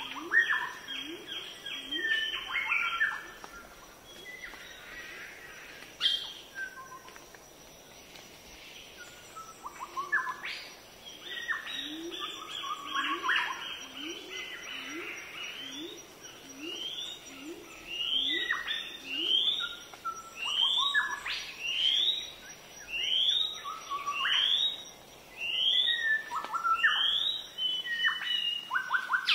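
Birds chirping and calling: dense bursts of short chirps at first, then quick rising whistled notes repeated about once a second.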